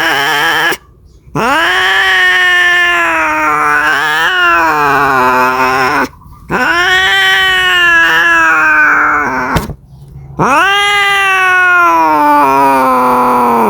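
Domestic cat yowling: long drawn-out caterwauls, each rising sharply and then sliding slowly down in pitch, three of them separated by brief pauses, the typical call of a cat looking for a mate.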